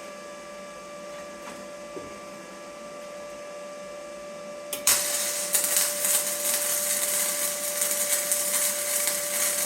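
Flux-core wire-feed (MIG) welder laying a bead on steel, a loud, steady crackling sizzle that starts about five seconds in and runs for about five seconds. A steady hum sounds underneath throughout.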